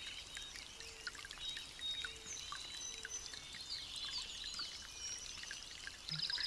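Many small birds chirping and calling at once, a dense chorus of short high notes, with a fast buzzy trill starting near the end.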